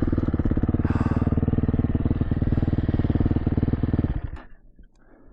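Dirt bike engine running at a steady pitch, which stops abruptly about four seconds in, leaving near quiet.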